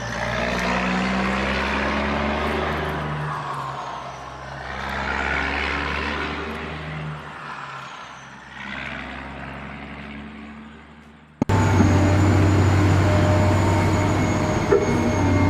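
Vehicle engine sound with a low steady pitch that swells and fades in waves, cut off suddenly about eleven seconds in by a louder, steadier engine sound.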